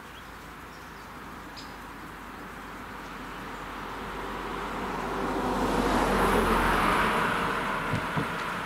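A road vehicle passing by, its tyre and engine noise swelling and then fading, with two short thumps near the end as it crosses the rails.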